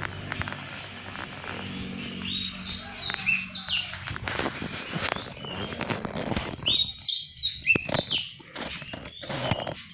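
A songbird chirping and whistling in short, high notes, some sliding up or down, in quick irregular phrases, with sharp clicks scattered among them.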